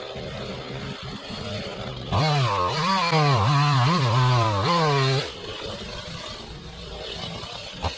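Chainsaw running at low throttle, then revved hard for about three seconds, its pitch dipping and recovering several times as the chain loads in the cut. It then drops back to a low throttle.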